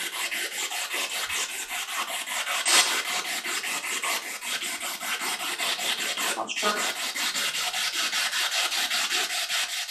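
Spirit box radio scanner sweeping in reverse through the radio band: a steady hiss of static chopped into rapid pulses, about seven or eight a second.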